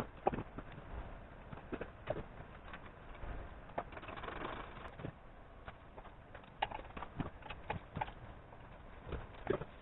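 Scattered light clicks and knocks of metal motorcycle parts and hand tools being handled and set down during assembly, with a short scraping swell about four seconds in.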